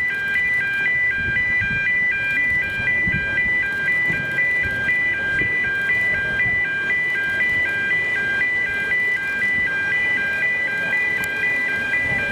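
Electronic warning alarm sounding a fast, even, repeating pattern of high beeping tones, about three cycles a second.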